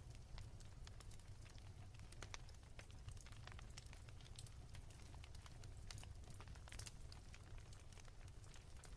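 Wood fire crackling softly in a fireplace: irregular small pops and snaps over a faint, steady low rumble.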